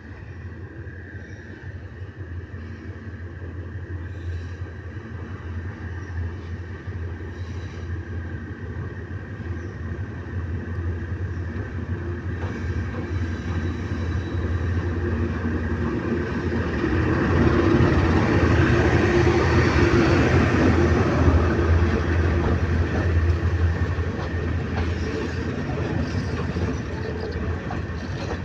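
GEK-class General Electric diesel-electric locomotive and its train running along the track, a steady low engine hum with rail rumble that grows gradually louder to a peak about two-thirds of the way through, then eases slightly as it passes.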